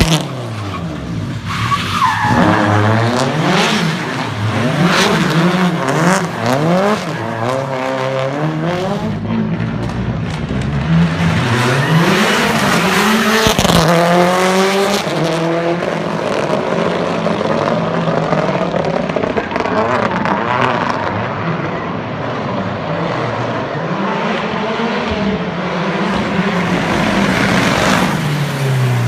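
Subaru Impreza WRX hillclimb car's boxer (flat-four) engine revving up and down again and again as the car is thrown through donuts and powerslides, with its tyres skidding.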